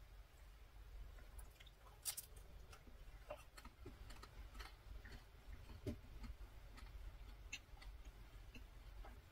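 Quiet close-up chewing of a macaron: faint, scattered crisp clicks and crackles from the shell and mouth, the loudest about two seconds in.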